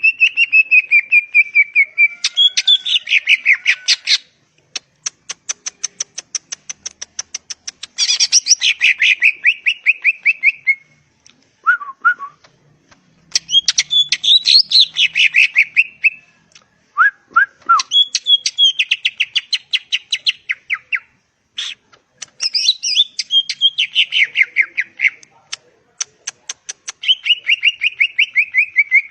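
Green leafbird (cucak ijo) singing: loud phrases of rapid, repeated chattering notes a few seconds long, with short pauses between them and a few brief lower notes in the gaps.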